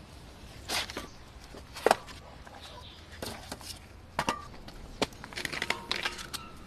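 Irregular knocks and taps of wood being handled, the sharpest about two seconds in, with a busier patch of clatter near the end.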